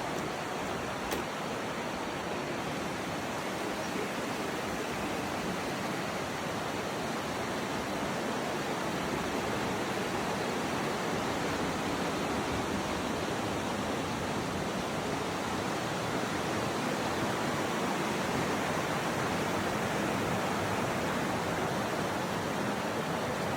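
Fast-flowing canyon river water rushing steadily, a constant even hiss of white water.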